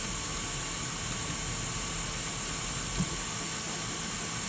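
Steady background hiss with a faint low hum, and one small click about three seconds in.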